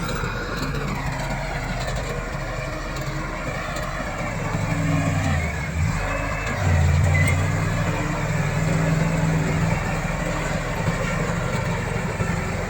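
Komatsu D68 crawler bulldozer's diesel engine running steadily, then growing louder and heavier under load from about five seconds in until about ten seconds in, with a brief dip near six seconds.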